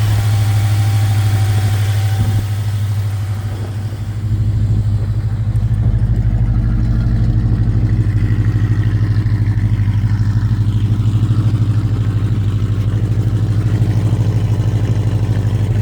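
The 1974 Chrysler Imperial's 440 cubic-inch four-barrel V8 idling steadily, still on high idle after a cold start. About four seconds in, the sound grows deeper and a little louder, then holds even.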